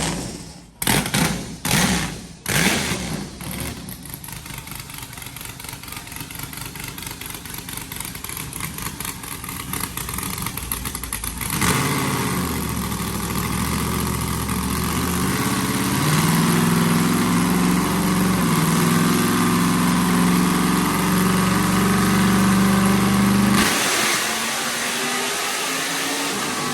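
408 cubic-inch stroker V8 engine blipping and stumbling in a few choppy bursts, then running under load on a pull to check its air-fuel ratio. It changes character about halfway through and drops off near the end; the mixture reads a little lean.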